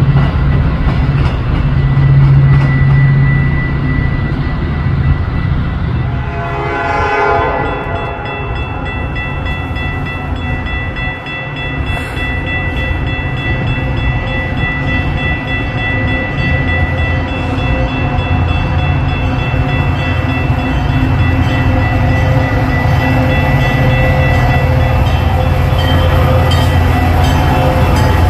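Train passing, with a heavy low rumble from the locomotive throughout and several steady high tones held over most of it.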